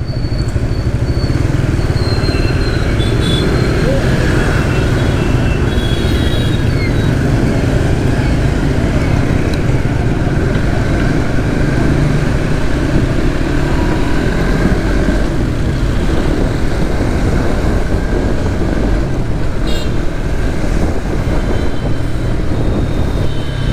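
Steady wind rush and road noise from a motorcycle under way, with the Suzuki GSX-S150's small single-cylinder engine running underneath.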